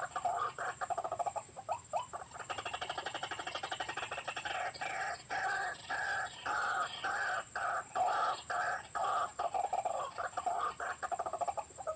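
White-breasted waterhen calls: a fast rattling run early on, then a string of repeated croaking notes at about two a second, over a steady high whine.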